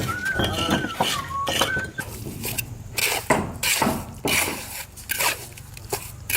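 Irregular knocks and clatters, like things being handled and set down, with a thin wavering high tone during the first two seconds.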